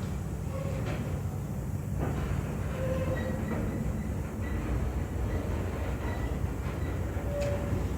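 Train rolling along the track: a steady low rumble, with a few brief faint squeaks and clicks.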